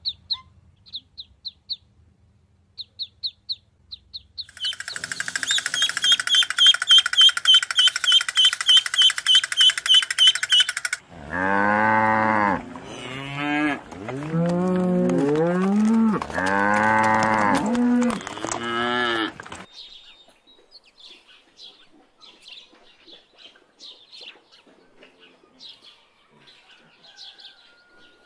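Mallard ducklings peeping in short high cheeps, followed by a fast, loud run of high bird calls. A cow then moos about five times in long calls, and faint chirping follows.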